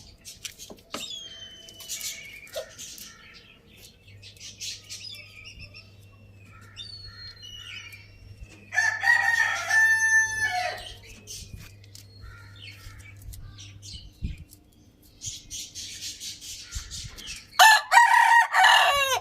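Roosters crowing twice, a loud crow about halfway through and another near the end, with hens clucking and smaller chirping calls in between over a low steady hum.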